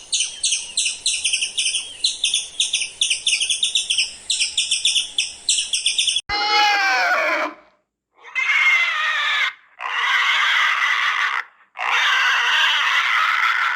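Animal calls: a fast run of high chirps for about six seconds, then, after an abrupt cut, a falling cry followed by three longer screeching calls.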